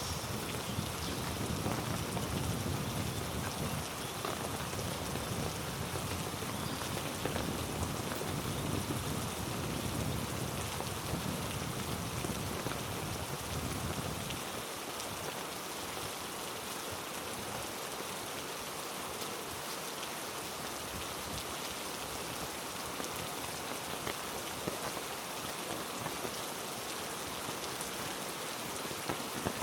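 Heavy rain falling steadily on rainforest foliage, a dense even hiss flecked with individual drop hits. A deeper rushing layer underneath cuts off suddenly about halfway through.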